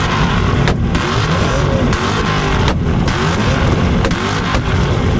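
Tuned car engines held on two-step launch limiters, a loud continuous rapid-fire popping and crackling with rising and falling revs, broken by a few brief cuts.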